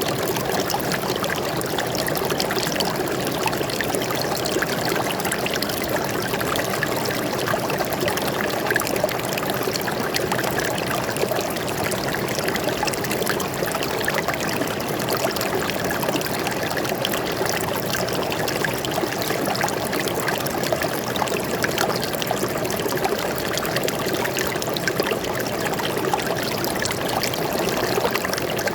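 Stream of water flowing and trickling steadily, a continuous even splashing with no breaks.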